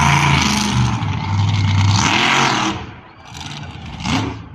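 Vehicle engines revving hard, rising and falling in pitch. The sound drops away suddenly about three seconds in and then comes back in short bursts.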